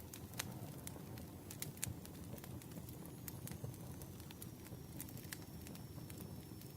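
Campfire crackling: irregular sharp pops and snaps over a low rumble of burning wood, with a faint thin high whistle joining about halfway through.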